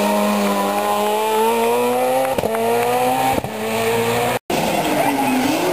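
Peugeot 207 rally car engine pulling out of a hairpin, its pitch rising steadily for about four seconds, with two sharp cracks about a second apart. Near the end the sound drops out for an instant and another car's engine follows.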